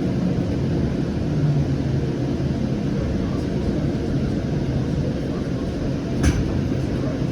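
Cabin ride noise of a Siemens S700 light rail car slowing into a station: a steady low rumble with a motor hum that steps down in pitch in the first two seconds, then holds. There is one sharp click about six seconds in.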